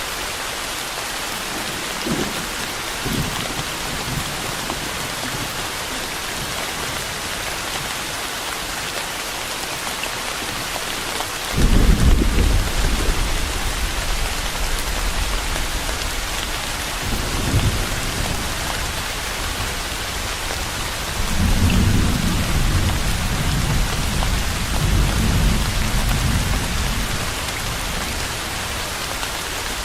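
Steady rain with thunder rumbling over it: two faint grumbles near the start, a sudden louder rumble about twelve seconds in that dies away over several seconds, a shorter one a few seconds later, and a long rolling rumble in the second half.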